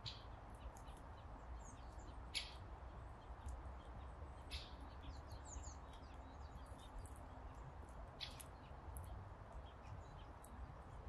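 Small birds chirping: four short, high calls a couple of seconds apart, with fainter chirps between, over a faint steady low rumble.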